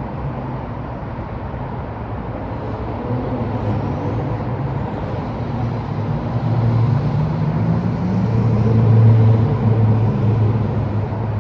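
Downtown street traffic, with a vehicle engine's low hum building and loudest about nine seconds in.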